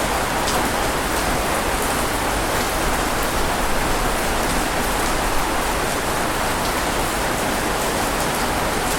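Steady heavy rain falling on a surface: an even hiss with a few individual drops standing out.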